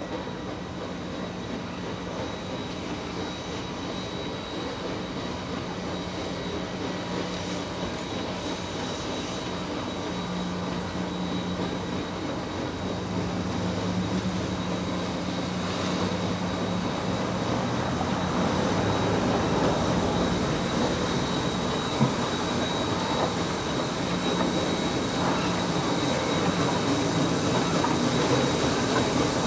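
A train approaching: a steady low rumble with a humming tone that grows steadily louder as it draws near, with one sharp knock about three quarters of the way through.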